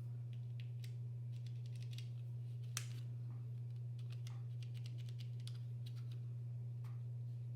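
Scattered light clicks and taps from a SteelSeries mechanical gaming keyboard being handled, with one sharper click about three seconds in, over a steady low hum.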